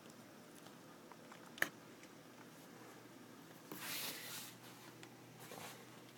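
Faint rain during a thunderstorm, a low steady hiss. There is one sharp click about a second and a half in, and a brief swell of hissing about four seconds in.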